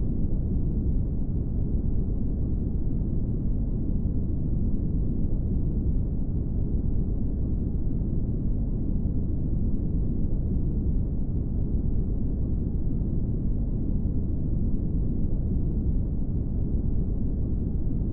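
Brown noise: a steady, even, deep rushing noise, strongest in the low end and with almost nothing high.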